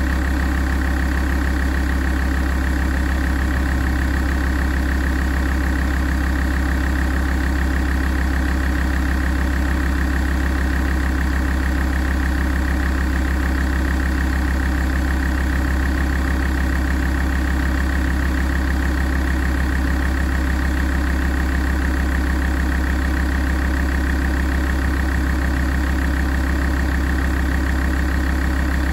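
Alfa Romeo 166 2.4 JTDm five-cylinder common-rail diesel idling steadily while warming up, with no revving.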